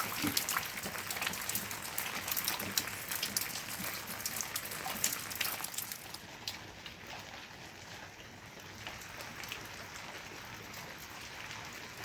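Rain falling, with many separate drops striking close by over a steady hiss. About halfway through the drop strikes thin out and the sound settles to a softer, even hiss.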